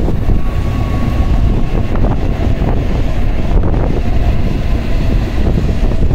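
N700-series Shinkansen train running into the station past the platform: a steady, loud rumble of wheels on rail with a faint whine over it and wind buffeting the microphone.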